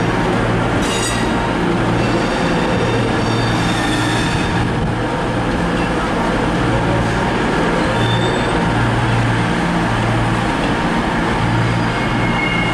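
Train running through a station: a steady loud rumble with a low hum that comes and goes, and brief high squeals of wheels on the rails about a second in and again around four seconds in.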